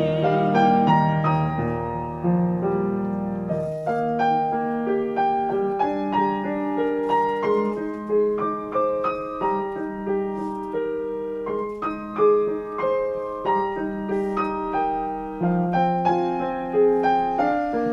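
Piano playing a gentle instrumental interlude of a song accompaniment, notes and chords struck one after another and left to ring, with no voice.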